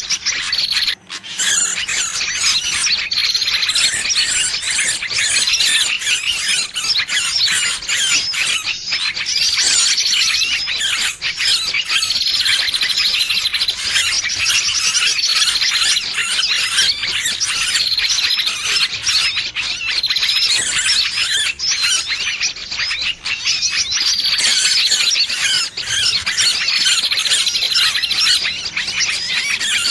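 Bird-lure recording of a trapped bird's distress calls: continuous high-pitched squealing and chattering, with a short squeaky note that recurs every few seconds.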